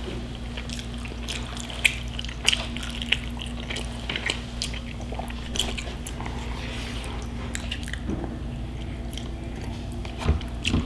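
Close-miked mouth sounds of a man chewing and swallowing food: scattered wet clicks and smacks. A steady low hum runs underneath.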